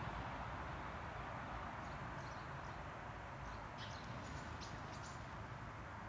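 A small bird giving a quick series of short, high-pitched calls from about two seconds in to about five seconds in, over a steady background hiss.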